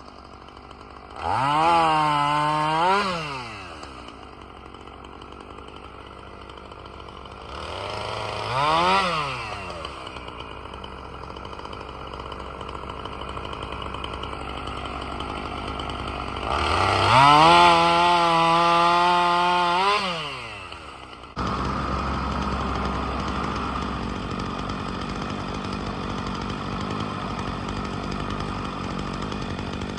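Gas chainsaw idling and revving three times, each rev rising and falling in pitch, the longest held for about four seconds. About two-thirds through it changes suddenly to a steady running sound.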